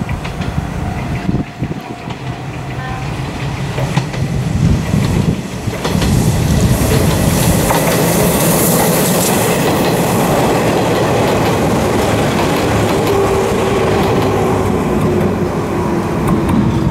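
Izuhakone Railway 3000 series electric train approaching and passing close by, its wheels running loudly on the rails, growing louder over the first six seconds. A steady tone falls slowly in pitch as the last cars go by.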